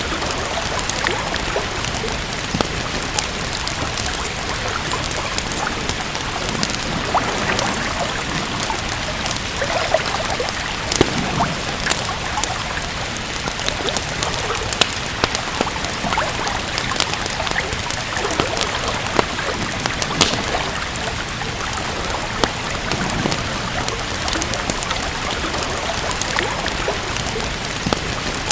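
Steady rain hissing with a wood fire crackling, scattered sharp pops and snaps over the even wash of rain.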